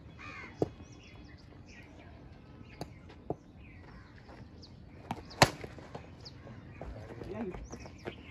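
Birds chirping in short, repeated calls, with a few light clicks and one loud sharp crack about five and a half seconds in.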